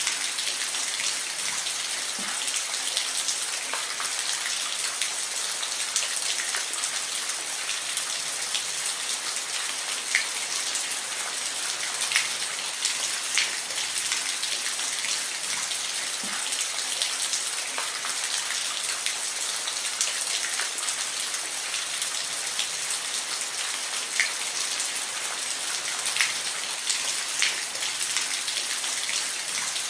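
Steady rain falling: a dense, even hiss with scattered louder drop strikes.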